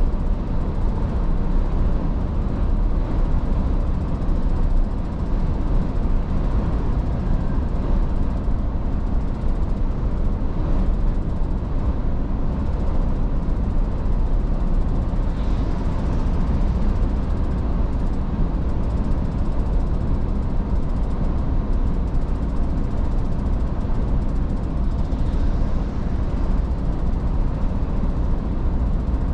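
Iveco S-Way truck on the move: a steady engine drone with road and tyre noise, heaviest in the low end.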